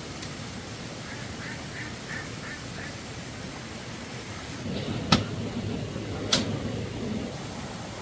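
Ducks quacking, a quick run of about six short calls, over a steady rushing hiss. Past the middle comes a louder rustling stretch with two sharp knocks about a second apart, the loudest sounds.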